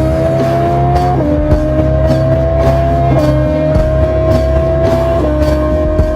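Motorcycle engine accelerating through the gears. Its pitch climbs steadily and drops sharply at each upshift, three shifts about two seconds apart, over music with a steady beat.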